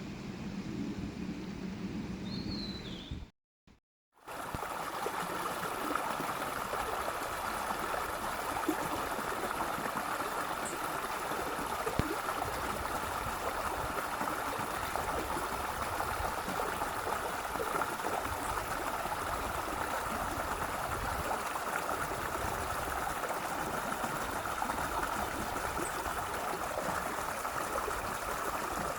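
A few high bird chirps over a low hum, then a brief cut to silence, then a stream running steadily.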